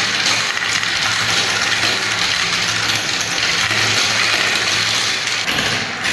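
Many small balls rolling and clattering down a spiral marble-run track in a dense, continuous rattle, with a steady low hum underneath.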